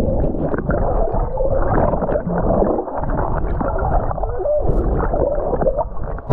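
Lake water sloshing and gurgling over a camera microphone as it is carried by a swimmer, with a steady low rumble and muffled splashing from the strokes.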